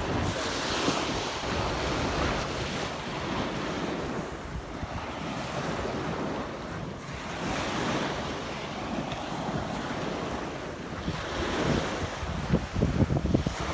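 Surf washing onto a beach in swells every few seconds, with wind buffeting the microphone, gusting harder near the end.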